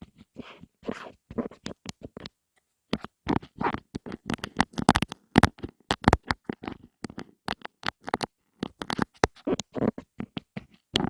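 Close-miked ASMR tapping and scratching on an object: quick, irregular taps and short scratches, several a second, with a brief pause about two seconds in.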